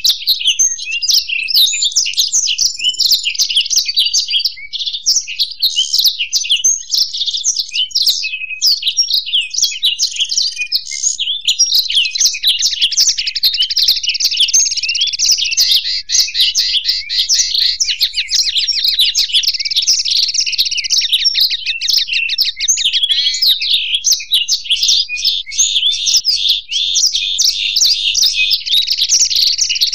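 Blackthroat (black-throated canary) and European goldfinch singing without pause: fast, high twittering trills and chirps that grow denser and fuller from about twelve seconds in.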